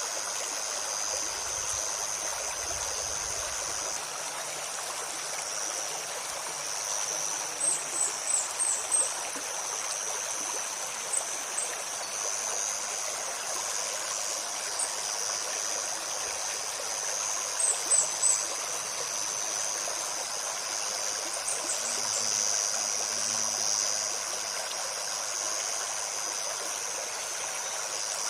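A shallow stream babbling steadily, under a continuous high insect drone. Short, very high bird chirps come in quick clusters several times.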